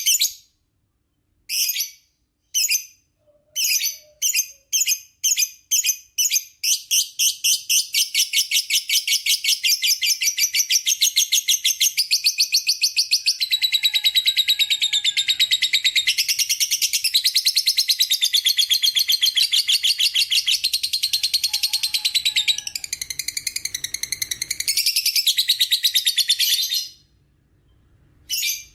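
A lovebird's long ngekek: a few separate, sharp, high chirps that speed up into a rapid, unbroken chattering trill lasting about twenty seconds, which cuts off suddenly.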